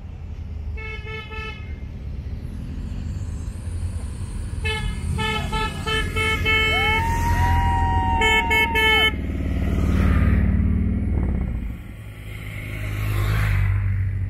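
Motorcycle horns beeping in quick groups of short toots as riders leave the start, with one long held horn note in the middle, over the steady rumble of motorcycle engines. Bikes pass close twice near the end, their engine noise rising and fading.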